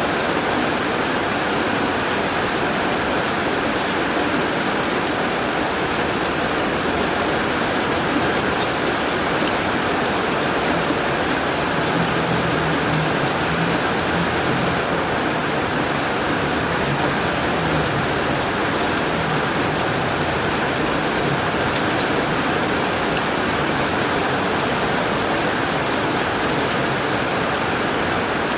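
Heavy rain drumming steadily on a tin roof, an even dense patter with no let-up. A faint low rumble sits under it around the middle.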